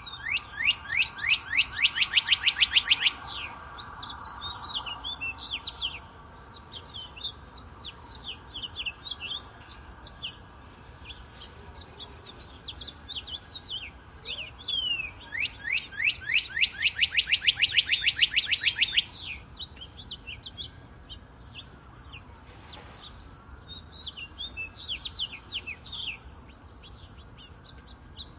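Songbirds chirping, with many short high sweeping notes. Twice a loud, rapid trill of quickly repeated sweeping notes lasts a few seconds: once at the start, and again about halfway through.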